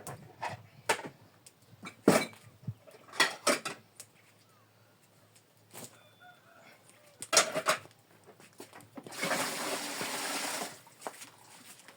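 Pots and dishes clinking and knocking together as they are handled for washing, a dozen or so sharp strikes over the first eight seconds. About nine seconds in comes a rush of pouring water lasting about a second and a half, and hens cluck faintly.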